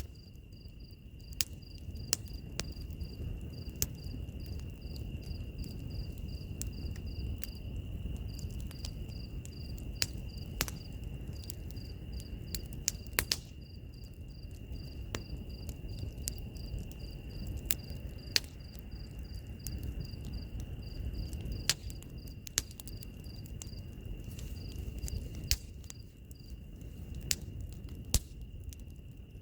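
Wood fire crackling with scattered sharp pops over a low, even rumble of flames, mixed with insects chirping: one steady high trill and a faster pulsing chirp above it.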